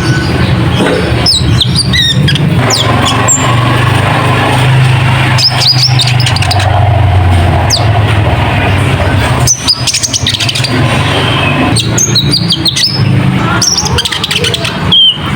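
Konin (kolibri ninja) song: clusters of sharp, rapid high chirps and quick down-sweeping notes every few seconds, over a loud low rumble.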